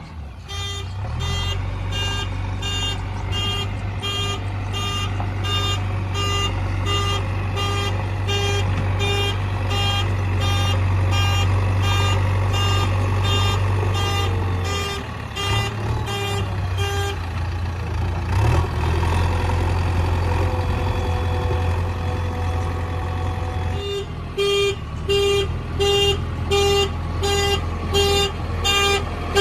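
A heavy diesel machine's engine running steadily under a reversing alarm that beeps evenly, about one and a half times a second. The beeping stops for several seconds past the middle, then starts again.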